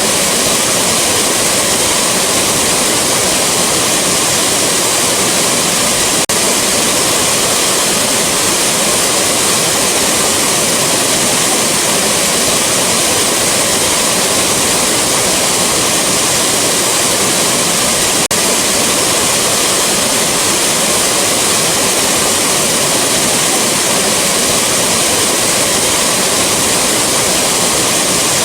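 Rushing waterfall: a steady, loud, even wash of falling water, with a faint click about six seconds in where the loop is joined.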